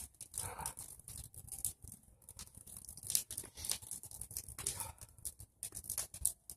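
Bonfire of pruned tree branches crackling, with many irregular sharp snaps and pops.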